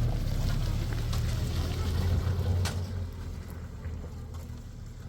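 A motor vehicle's engine running with a low rumble that fades away from about three seconds in.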